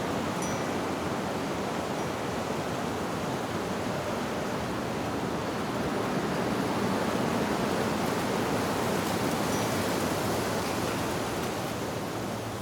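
Steady rushing of wind blowing through leaves, with a faint high wind-chime note about half a second in and another near the end.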